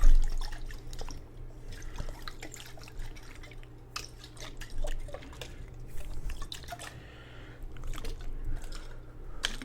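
Water dripping and trickling in a jar, with scattered sharp clicks and a low thump right at the start.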